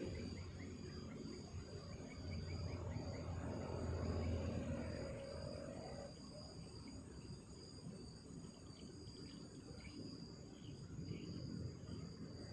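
Night insects, crickets among them, trilling steadily in a high, pulsing chorus. A low rumble sits under them for about the first half, then drops away, and a few faint chirps come near the end.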